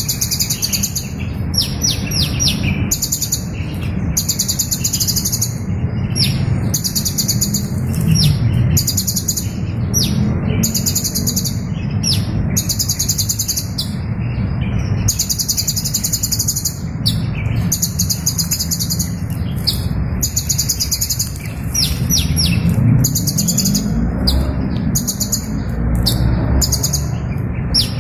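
A small bird singing: very high, rapid buzzy trills about a second long, repeated roughly every two seconds, with sharp rising chip notes between them, over a steady low rumble.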